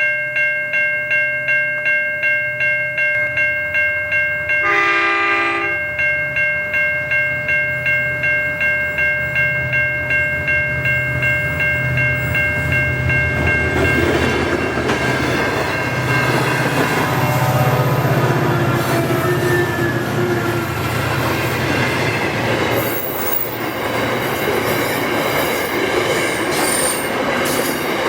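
A pulsing electronic warning bell, like a level-crossing bell, rings about twice a second for the first half, with one short train horn blast about five seconds in. The bell then stops and a long freight train, which the uploader takes for an iron ore train, passes with a steady rumble of wagons and squealing wheels.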